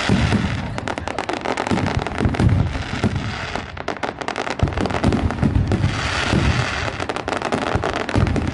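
Fireworks going off in a dense, continuous barrage: rapid sharp bangs and crackling mixed with deep booms, with no break.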